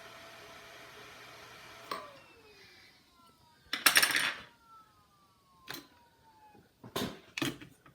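A computer fan running steadily with a hum, cut off by a click about two seconds in, after which its tone falls slowly as it spins down. Over the spin-down come handling sounds on the bench: a louder scrape about four seconds in and several sharp clicks near the end.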